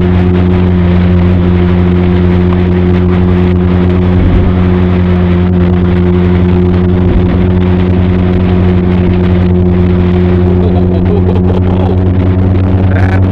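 Benelli TRK 502's parallel-twin engine and exhaust running at a steady, even pitch while the motorcycle cruises at constant speed, picked up close to the exhaust, with road and wind noise underneath.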